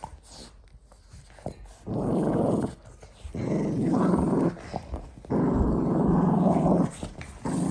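Dog growling in play during a rope tug of war. The growls come in four stretches, the longest about one and a half seconds, starting about two seconds in.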